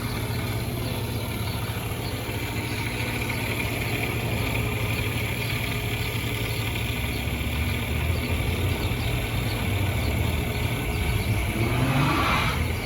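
A steady low mechanical hum like a running engine, with a rising glide in pitch near the end.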